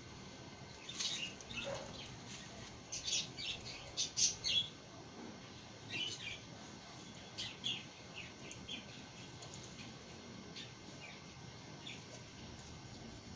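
Small birds chirping in short, irregular calls, busiest in the first five seconds and sparser after, over a faint steady outdoor hiss.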